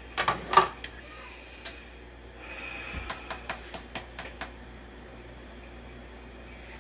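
A utensil clinking against a mixing bowl: a few sharp clicks at the start, then a run of about seven quick light clicks about halfway through.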